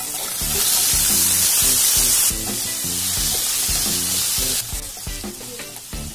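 Whole shallots hitting hot oil with tempering spices and sizzling loudly. The sizzle eases about two seconds in and drops again near the end as the oil cools under the onions.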